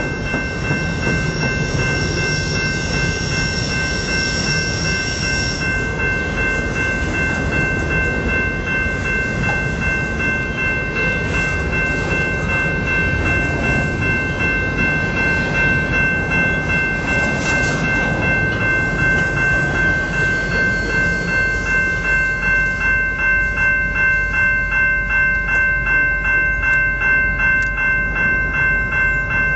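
Empty double-stack container well cars of a freight train rolling past, with wheel clatter and rumble. Underneath is a level-crossing warning bell ringing steadily. From about two-thirds of the way in, the wheels' clicking over the rail joints turns into a clear, even beat of about two a second.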